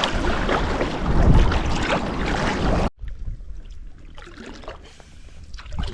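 Wind buffeting the microphone over water splashing against a sea kayak, with heavy low rumble; about halfway through it cuts off abruptly to much quieter water sounds with small scattered splashes.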